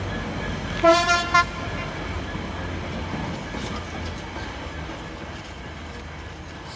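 A train horn gives one short toot about a second in, over the steady low rumble of a train.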